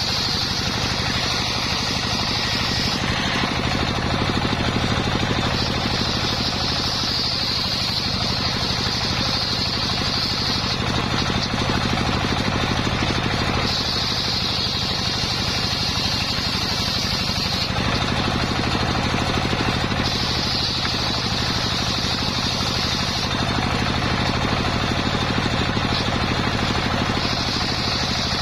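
Engine-driven homemade circular saw running steadily, with a high whine that comes and goes in stretches of a few seconds as the blade works through coconut wood.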